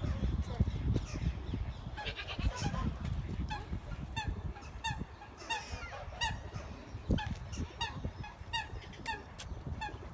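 Domestic birds calling in a run of short, repeated calls, about two a second, over a steady low rumble.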